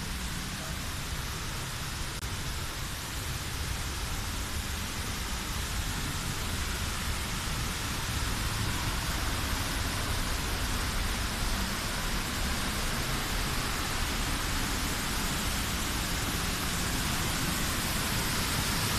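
Steady rush of falling and running water, a dense even hiss with a low rumble, growing slowly louder.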